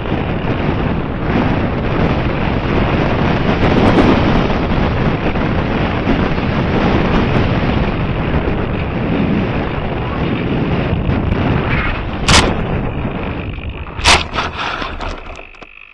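Wind buffeting the microphone in a loud, steady rush, with two sharp knocks about a second and a half apart near the end before the noise fades out.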